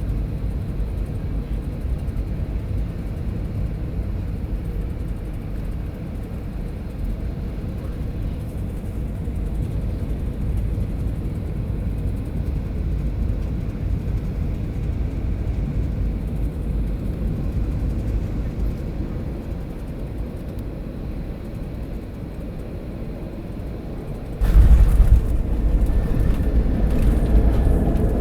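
Cabin noise of a Boeing 737-700 with its CFM56-7B turbofans, a steady low drone of engines and airflow on final approach. About 24 seconds in it turns abruptly into a much louder rumble, the sound of touchdown and rollout.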